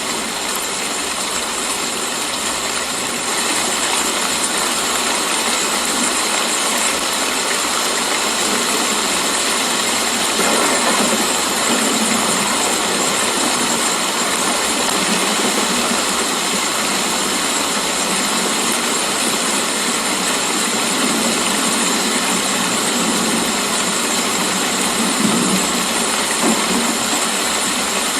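Steady rain falling, an even hiss that carries on without a break, with a few soft swells in the lower part of the sound.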